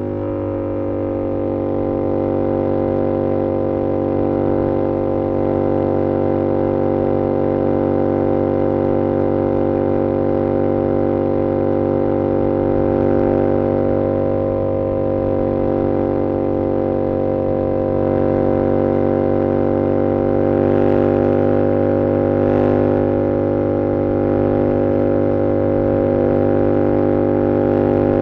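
A 2022 Yamaha R7's 689cc parallel-twin engine through an SC-Project CR-T exhaust, held at a steady engine speed while cruising: one even, unchanging note with no revving or gear changes.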